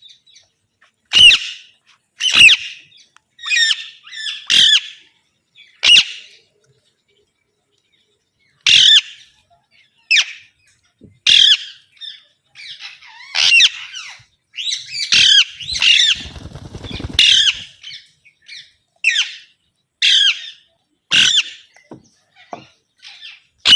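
Green parakeets giving a series of loud, harsh squawks, one every second or so, with calls overlapping in the middle. About two-thirds through comes a short low rattle.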